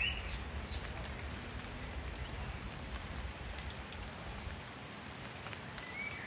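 Steady rain falling, with a few short rising bird chirps at the start and again near the end.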